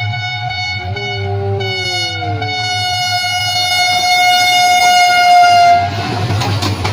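HGMU-30 diesel locomotive's horn sounding one long steady blast, growing louder as the train approaches, with a lower sliding tone briefly about a second in. The horn cuts off about six seconds in and the rush and clatter of the train passing close takes over.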